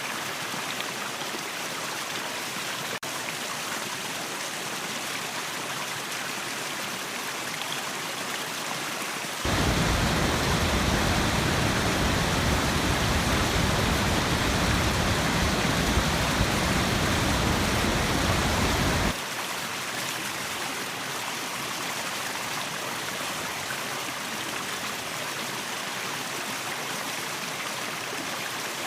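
Waterfall water rushing steadily. About a third of the way in, it abruptly becomes louder and fuller, with more low rumble. It drops back just as suddenly about ten seconds later.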